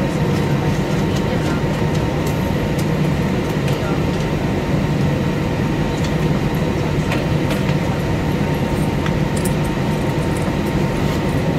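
Steady cabin noise inside an Airbus A320 on the ground after landing: an even low hum with a faint steady high-pitched whine, from the idling engines and cabin air system.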